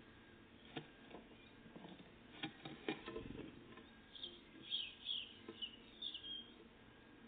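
Small songbirds chirping, a quick run of short high calls in the second half. Before them come a few sharp knocks and a short rattle, the kind a feeder makes when birds land on it and peck.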